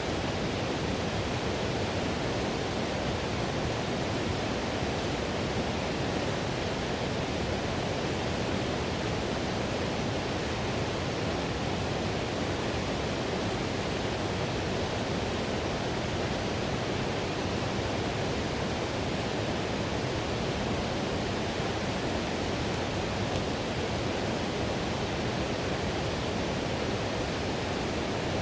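River whitewater rushing over rapids in a steady, unbroken wash.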